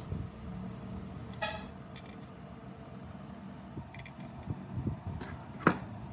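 Metal parts clinking over a steady low hum. One ringing metallic clink comes about a second and a half in, and a sharper knock near the end, with a few small clicks before it.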